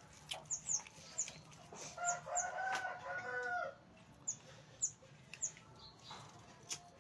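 A rooster crows once, about two seconds in, for nearly two seconds. Small birds chirp in short high notes throughout, with a few sharp clicks.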